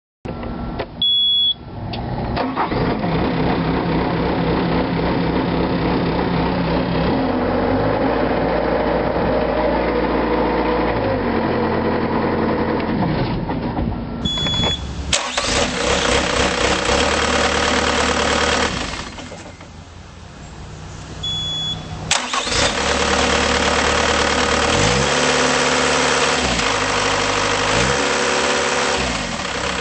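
2008 Bobcat T190 tracked skid steer's diesel engine: a short beep about a second in, then the engine starts and runs, its speed stepping up and down several times. Partway through there is another brief beep. The engine sound drops low for a few seconds, then comes back up and again goes up and down in speed.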